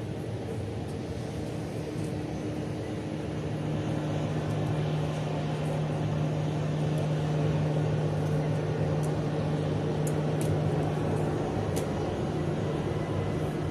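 An airliner's cabin hum from the inside: a steady low engine-and-ventilation drone that grows a little louder about three seconds in, with a few faint ticks near the end.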